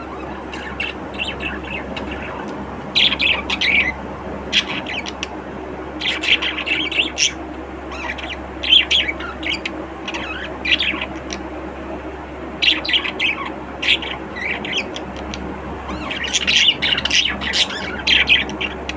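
Budgerigars chattering and chirping in short bursts, busiest about three seconds in, around six to seven seconds, and near the end, over a steady low hum.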